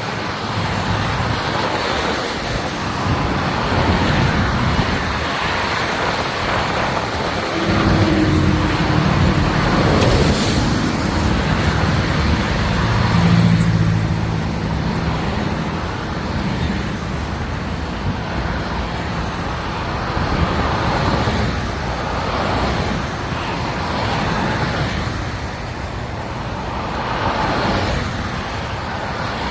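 Highway traffic: a steady roar of tyres and engines that swells and fades as vehicles pass, with the low engine hum of a heavy vehicle going by about eight to fifteen seconds in.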